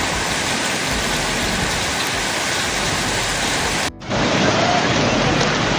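Heavy rain pouring down in a steady hiss, with a cut a little under four seconds in to another stretch of the same kind of downpour.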